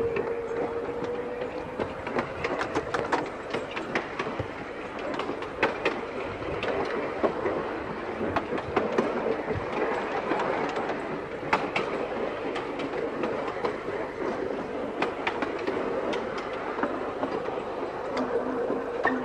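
A Seaton Tramway narrow-gauge electric tram running along its track, with a steady running noise and many irregular sharp clicks from the wheels passing over rail joints. A faint steady hum sits underneath, clearest at the start and near the end.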